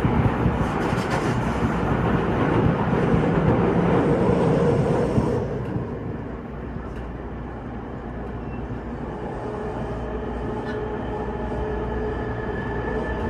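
Running sound heard aboard a Toei 6300 series train as a train on the other track passes close alongside: a loud rush of noise for about the first five seconds. It then drops to the train's own quieter, steady running noise with faint steady tones, growing slightly louder toward the end.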